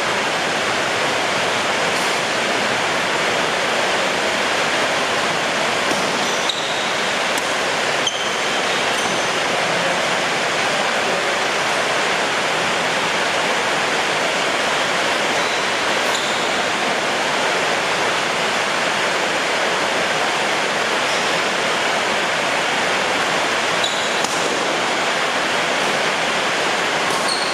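Heavy rain, a steady dense hiss with no let-up.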